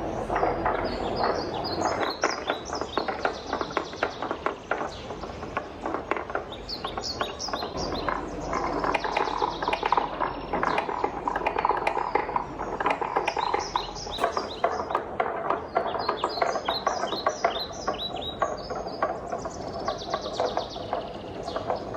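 Many wooden balls rolling down a wooden marble-run track: a continuous rolling rumble full of rapid wooden clicks and clacks, with bursts of bright, quick ticking.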